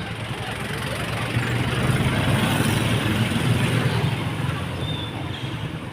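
A motor vehicle passing close by: engine rumble and road noise build up, peak in the middle and fade away.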